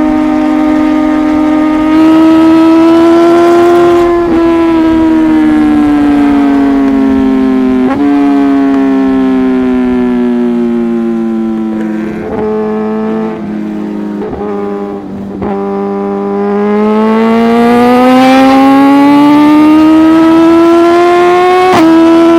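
Liter-class sportbike inline-four engine running hard at high revs through an aftermarket exhaust. The steady note sinks slowly in pitch over about ten seconds, then climbs again near the end, with a few brief sharp breaks along the way.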